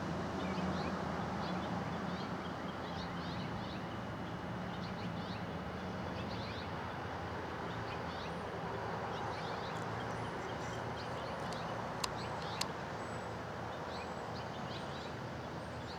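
Outdoor bird chorus: many small birds chirping in short, scattered calls over a steady low background hum. Two brief clicks about twelve seconds in.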